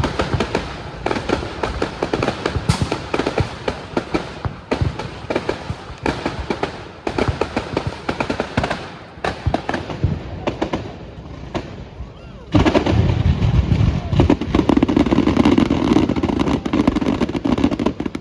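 Fireworks display: a rapid string of crackles and bangs that turns into a denser, louder barrage about twelve seconds in.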